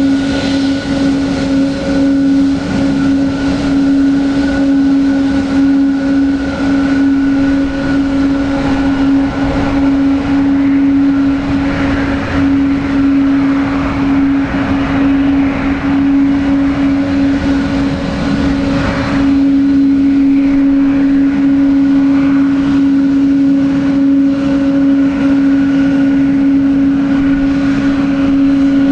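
Boeing 777-200 airliner's jet engines running steadily, a constant humming tone over rushing noise, rougher for a while in the middle.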